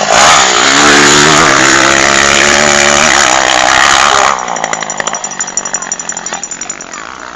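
Motocross dirt bike engine revving hard close by, its pitch climbing. The sound drops sharply about four seconds in, then fades away.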